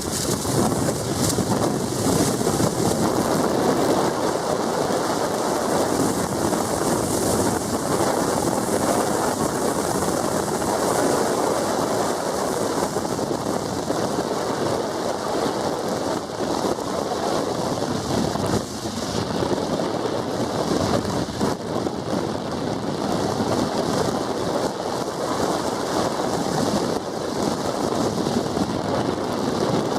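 Steady rushing noise of a vehicle on the move: tyre and wind noise, with wind buffeting the microphone.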